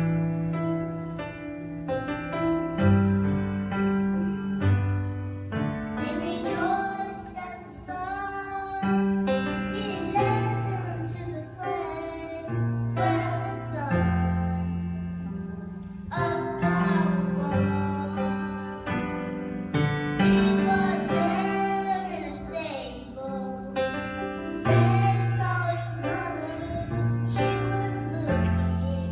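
A voice singing a song with instrumental accompaniment, the held notes wavering with vibrato.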